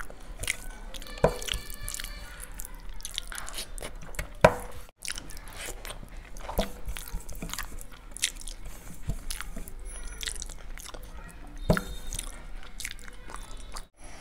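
Close-miked eating sounds: a person chewing mouthfuls of biryani rice eaten by hand, with many sharp wet clicks from the mouth. A few clicks stand out louder than the rest.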